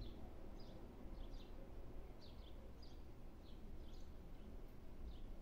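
Small birds chirping faintly: irregular short, high chirps, about one or two a second, over low steady background noise.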